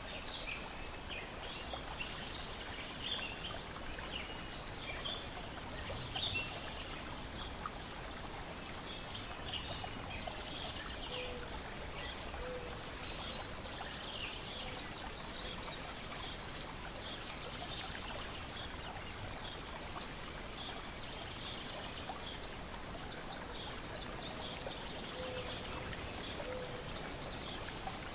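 Lake water lapping steadily against the shore, with birds chirping throughout.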